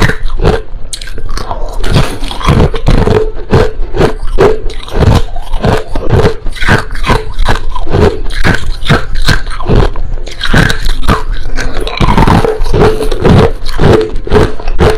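Crushed ice crunching between the teeth, close up: rapid, continuous bites and chews, several a second.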